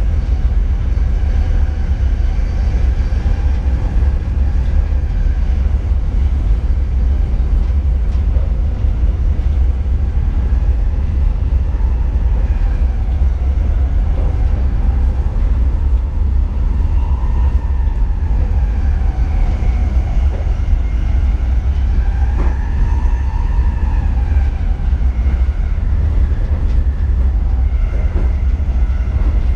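NS Sprinter Lighttrain electric multiple unit running, heard in the driver's cab: a steady low rumble with a faint whine that rises and falls in pitch. A single click comes about three-quarters of the way through.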